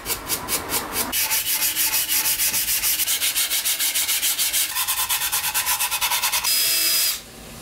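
Sandpaper rubbed back and forth on wood in quick, even strokes, several a second, stopping shortly before the end.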